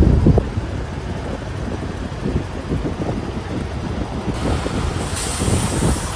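Freightliner semi-truck's diesel engine running with a low, uneven rumble just after being jump-started from a dead battery. Near the end comes a burst of hissing.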